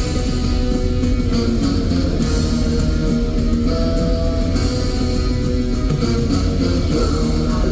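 Live band music: a guitar-led instrumental passage over bass and drums.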